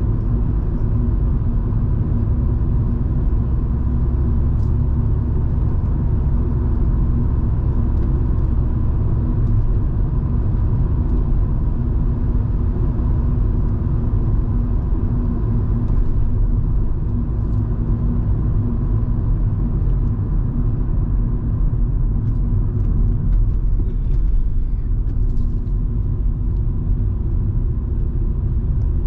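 Cabin sound of a Volvo V70 2.5T driving along: a steady low engine and road rumble from its turbocharged five-cylinder, with a faint steady whine and a few light ticks.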